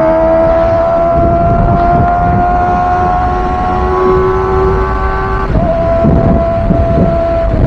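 Kawasaki ZX-25R's 249 cc inline-four at high revs through a Villain R11 aftermarket exhaust, under way with a high-pitched exhaust note. The pitch climbs slowly as the revs build, breaks abruptly about five and a half seconds in, then holds nearly steady, over a low rumble of wind.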